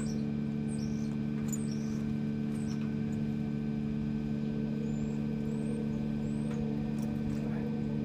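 Tractor engine idling steadily, with short high chirps over it now and then.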